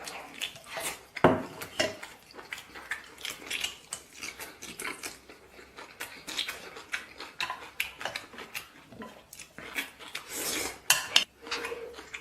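Cutlery clinking and scraping against a bowl while eating, in short irregular clicks, with one louder knock about a second in.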